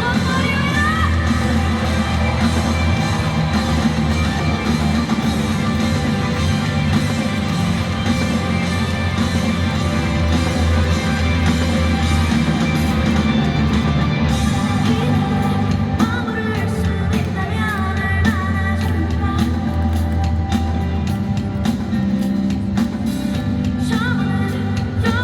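Live rock band playing amplified, with drums, bass and guitar under a lead vocalist singing; the voice comes back in strongly about two-thirds of the way through.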